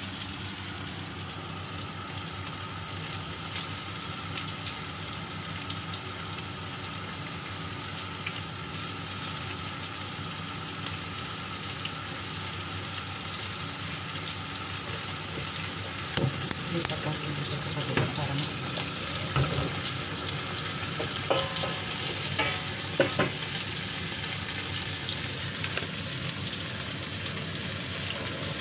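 Chicken breasts frying in oil in a nonstick pan, a steady sizzle. About two-thirds of the way through comes a run of sharp knocks and scrapes from a spatula and the pan being handled.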